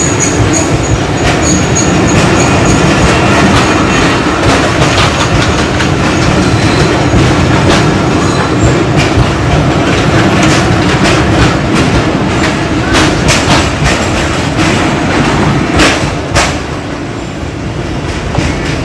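Bangladeshi passenger train coaches passing close by, the wheels clattering over the rail joints with many sharp clicks over a steady rumble. The sound eases near the end as the last coach passes and draws away.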